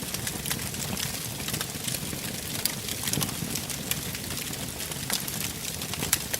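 Wood fire burning in a fireplace: a steady low rumble of flames under frequent sharp crackles and pops, one louder pop near the end.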